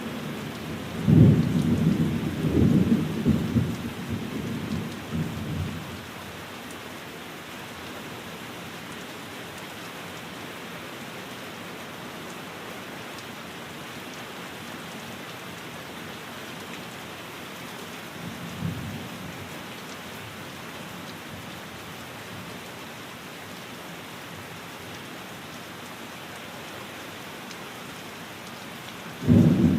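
Steady rain with rolling thunder. A loud, deep rumble comes about a second in and dies away over several seconds, a short one follows near the middle, and another breaks just before the end.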